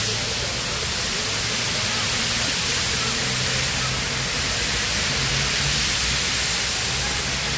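Steady, loud rush of falling water from a waterfall, an even hiss with no break.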